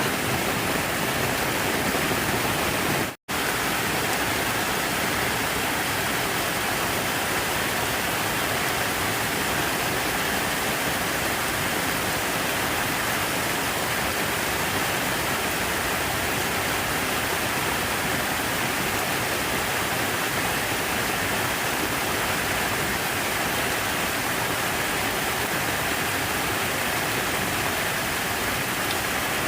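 Steady rush of falling water, an even hiss with no change in level, cut by a split-second dropout to silence about three seconds in.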